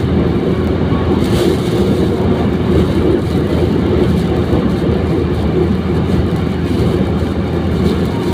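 Steady low rumble of a vehicle driving through a sandstorm, with engine, road and wind noise blended into one constant sound.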